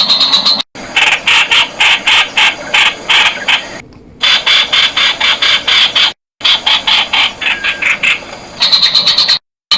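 Streak-eared bulbul calling in fast runs of sharp, repeated notes, about five a second, cut by a few sudden short silences.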